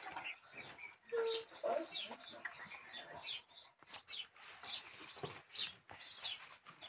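Small birds chirping over and over, short high thin calls falling in pitch, several a second, with a brief low steady tone about a second in.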